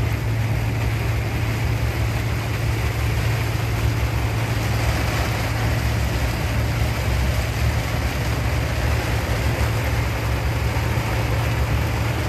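Heavy rain falling steadily, with a constant low hum underneath.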